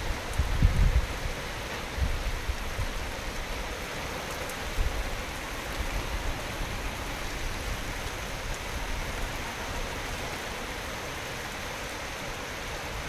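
Steady rain falling in a thunderstorm, an even hiss, with a few short low thuds in the first five seconds.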